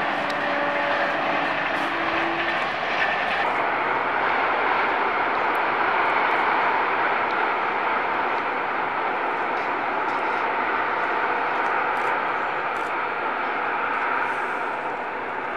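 Steady rushing roar of a long passenger train running at speed, heard from a distance as it crosses a bridge; the sound changes about three seconds in.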